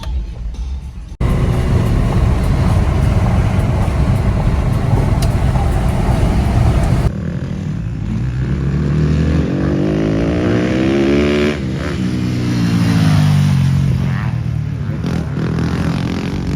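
Dirt bike engine being ridden: a loud rushing noise for the first few seconds, then the engine revs up in pitch and winds back down.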